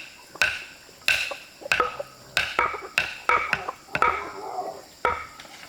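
A series of sharp knocks, about two a second and somewhat uneven, each with a brief ringing tone.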